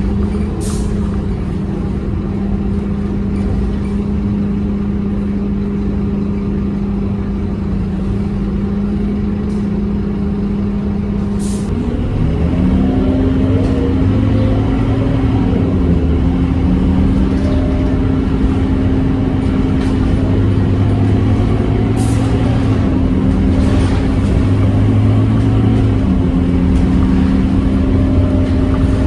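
Scania K230UB city bus's five-cylinder diesel engine running under way, a steady drone that steps up in pitch about twelve seconds in and holds there. A few brief, sharp hiss-like sounds cut in at intervals.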